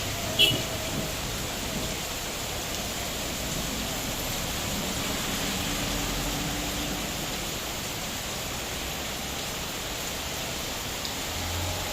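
Heavy rain falling steadily, an even rushing hiss, with one sharp tap about half a second in.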